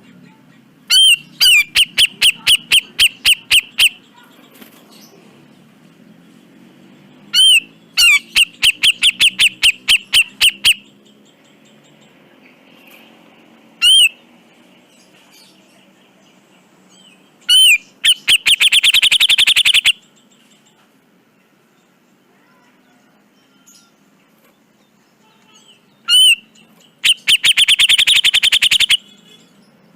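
Cucak jenggot (grey-cheeked bulbul) singing. Each phrase is a single loud arched note followed by a fast run of harsh, rapidly repeated notes lasting two to three seconds. Four such phrases come, with a lone arched note between them. A faint low hum runs underneath.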